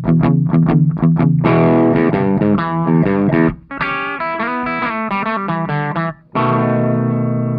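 Electric guitar played through the overdrive section of a NUX Cerberus multi-effects pedal with the drive turned down low. A run of short picked stabs gives way to ringing chords and a riff, ending on a long held chord.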